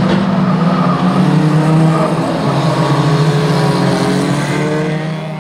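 Several small banger racing cars' engines running and revving together, their pitches wavering up and down. The sound fades away near the end.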